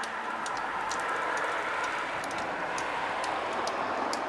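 A vehicle passing by, a broad hiss that swells and then fades, with scattered sharp ticks over it.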